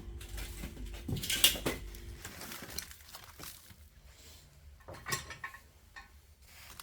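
Dishes and kitchenware clinking and knocking a few times, loudest about a second and a half in and again near five seconds, over a steady low hum that stops about two seconds in.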